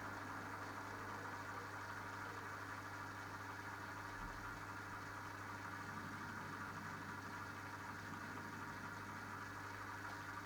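Minicolo mini washing machine running through its wash cycle: a steady motor hum with a constant low drone and no breaks.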